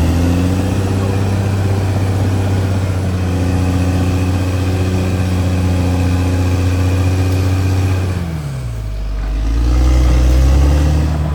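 CAT D6R XL bulldozer's diesel engine running at steady revs, dropping in pitch about eight seconds in, then revving back up.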